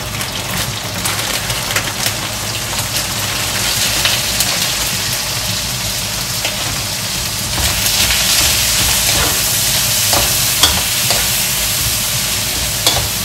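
Diced dried beef and calabresa sausage sizzling in oil in a steel wok as chopped onion is added. A metal spoon scrapes and clinks against the pan while it is stirred. The sizzle grows louder about halfway through.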